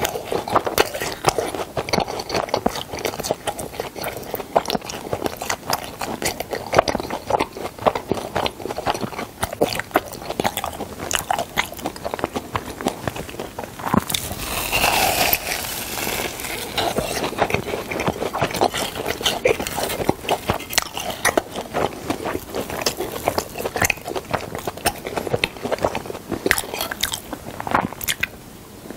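Close-up chewing of fried cheese balls: the crisp coating crunches under dense, irregular bites and chewing, with a louder, sharper crunch about halfway through as a fresh ball is bitten.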